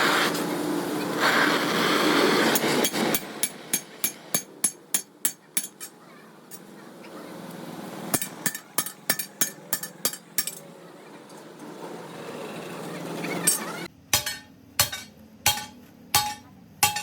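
Runs of sharp metal-on-metal taps, about three or four a second, then slower single strikes with a short ring near the end, as in hand work on a truck flywheel.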